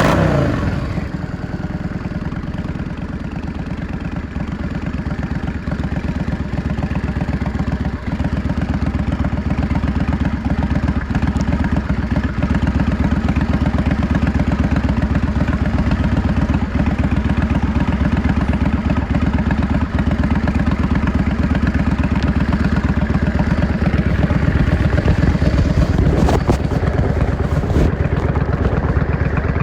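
Yamaha XVS 650 V-Star's air-cooled V-twin engine and exhaust under way on the road, revs dropping right at the start, then running steadily, a little louder from about eight seconds in.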